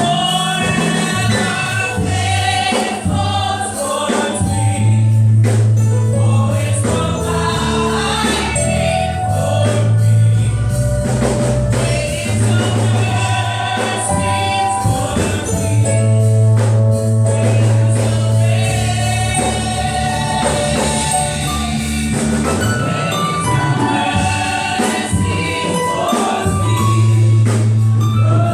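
Gospel music: a choir singing over a band with a steady bass line and percussion.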